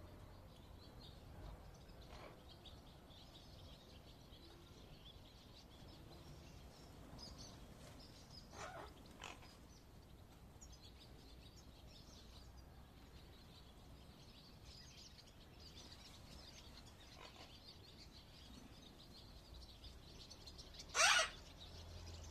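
Lord Derby's parakeet calling: two short calls about nine seconds in and one loud call near the end, over faint continuous bird twittering.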